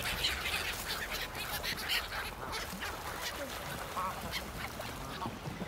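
Ducks quacking in short, scattered calls over a steady background hiss.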